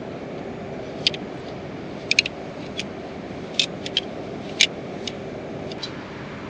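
Steady heavy rain, a continuous rushing hiss, with a scatter of short sharp clicks and taps over it, several close together about two seconds in and again around three and a half to four and a half seconds in.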